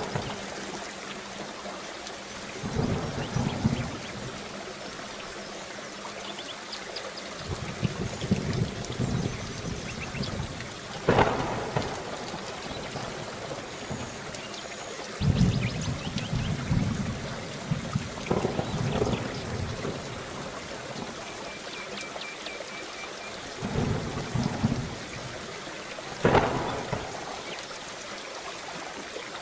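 Steady heavy rain falling, with thunder cracking and rumbling every few seconds, about six claps in all.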